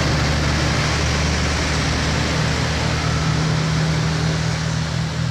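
Heavy road vehicle passing close: a steady low engine hum over a loud, even rush of tyre and road noise, easing slightly near the end.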